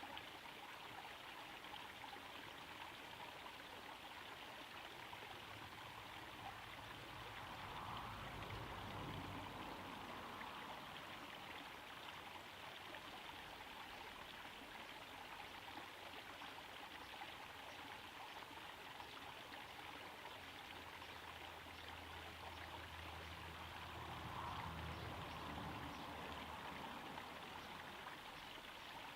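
Small garden pond waterfall trickling and splashing steadily into the pond. A faint low rumble swells up twice beneath it, about a third of the way in and again near the end.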